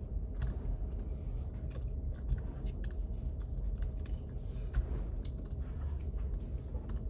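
Study-room ambience: a steady low rumble and faint hum with scattered light clicks and taps.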